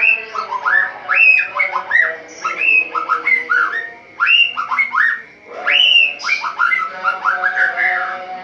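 White-rumped shama (murai batu) singing loudly: a rapid run of whistled, mostly upward-sweeping notes, several a second, broken by two short pauses around the middle.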